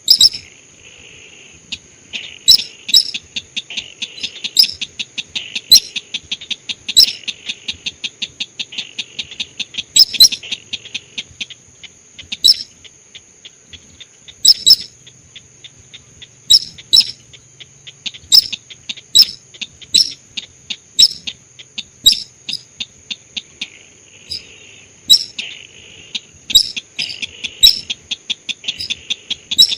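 Lure call of the sintar sawah, a rice-field bird: sharp, loud high call notes about once a second, over fast ticking trills. A steady high-pitched whine runs underneath.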